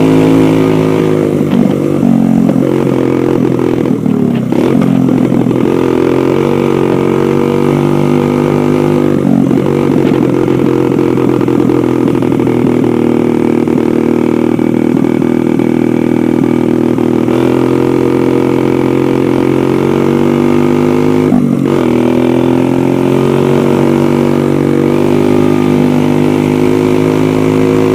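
Dirt bike engine running while riding, loud and steady, its note dipping and shifting several times as the throttle changes.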